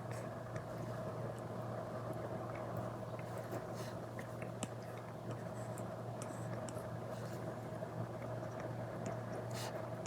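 Apple Pencil Pro tip scratching and tapping on an iPad's paper-like screen protector in short, irregular strokes, over a steady low hum.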